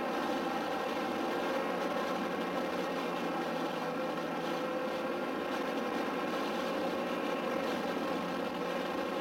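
2009 Kawasaki ZX-6R's inline-four engine running at a steady cruise, heard through a helmet microphone along with wind.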